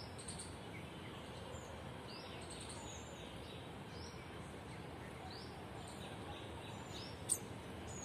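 Small birds chirping faintly in garden trees: short, high chirps about once a second, with one louder, sharper chirp about seven seconds in.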